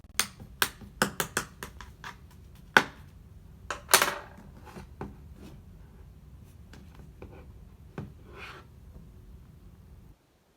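Hands playing with a soft cotton-candy "ice cream" slime: a run of sharp sticky clicks and pops in the first few seconds, a longer louder squishing noise about four seconds in, then fainter handling. The sound cuts off abruptly just before the end.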